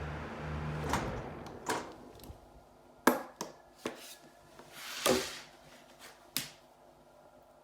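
Mitsubishi range-hood ventilation fan humming, the hum stopping about a second in, followed by a series of separate sharp clicks and knocks.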